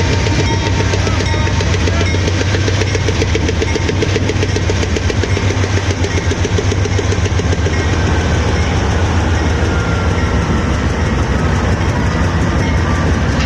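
Diesel locomotive engine running with a loud, steady deep throb as the train goes by close at hand, with a faint high squeal near the end.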